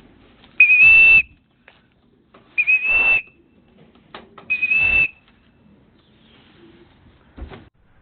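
Three short, steady, high whistles, about two seconds apart, blown to call a returning racing pigeon down into its loft. A short knock near the end.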